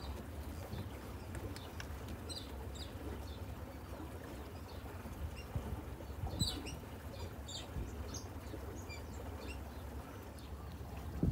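Small birds chirping in short high notes, in two loose flurries, over a steady low rumble of wind on the microphone, with a dull knock or two.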